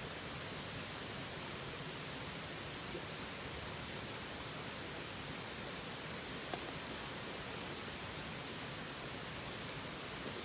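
Open wood fire burning with a steady hiss, with a few faint pops, about three seconds in and again past six seconds.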